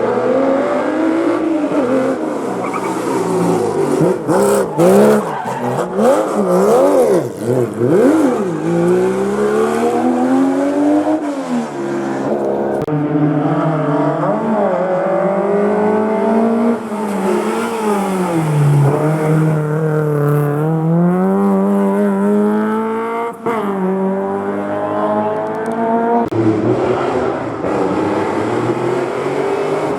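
Historic rally car engine at a hairpin: quick throttle blips with the revs jumping up and down for several seconds, then hard acceleration with the pitch climbing in long sweeps, each broken by a sudden drop at a gear change.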